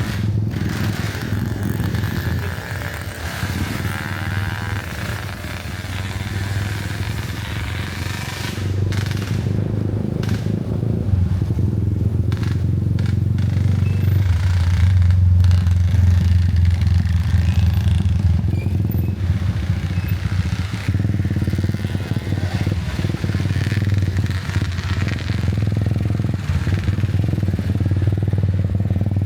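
Motorcycle engine running steadily on the move, with road noise. It grows louder over several seconds about a third of the way through, then holds.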